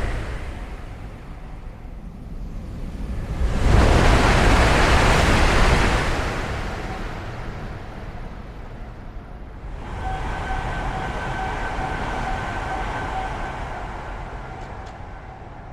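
High-speed EMU trains passing at speed: a loud rushing of air and wheels fades, swells again about four seconds in, then dies away. From about ten seconds a fainter rush carries a steady whine.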